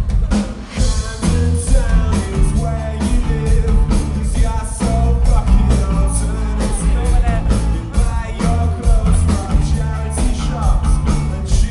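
Rock band playing live: a drum kit keeping a steady beat over a heavy bass line, with other instruments above.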